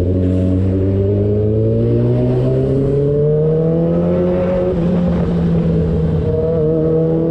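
Yamaha R6's 600cc inline-four engine under way, its revs climbing steadily under acceleration for about four and a half seconds, then dipping slightly about five seconds in and holding steady.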